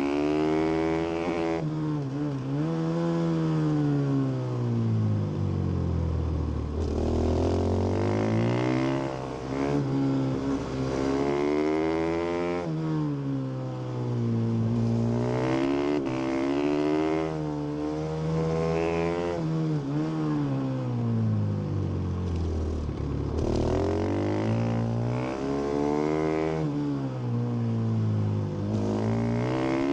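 2017 Husqvarna FS450 supermoto's single-cylinder four-stroke engine on stock exhaust, ridden hard around a track. It revs up through the gears and drops back off the throttle again and again, with deep dips in pitch at the slow corners.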